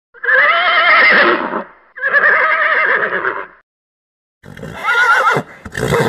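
Horse whinnying: two long, quavering neighs one after the other, then after a short pause a shorter neigh that falls in pitch, ending in a brief rougher burst.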